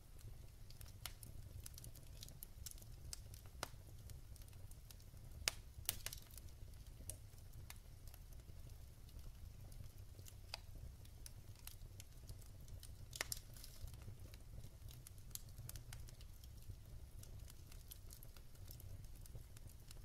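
Wood fire burning in a fireplace, the logs crackling softly with irregular snaps and pops, a few sharper ones about five to six seconds in and again near the middle, over a low steady rumble of the flames.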